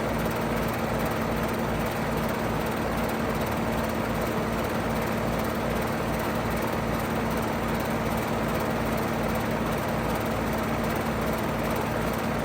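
A 5-ton Payne PH13 heat pump running steadily in heat mode: an even fan rush with a steady low compressor hum under it.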